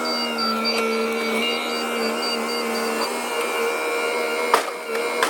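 A steady mechanical whine from a motor running under even load, with a faint, fast, high pulsing over its first three seconds and a sharp click near the end.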